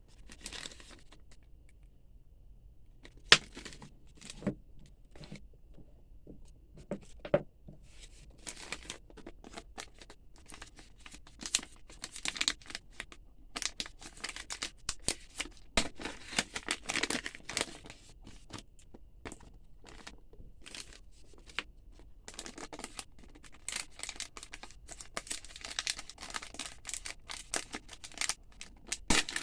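Plastic packaging being handled and torn open by hand, crinkling and rustling, with scattered small clicks and taps. There is one sharp click about three seconds in, and the handling grows busier after about eight seconds.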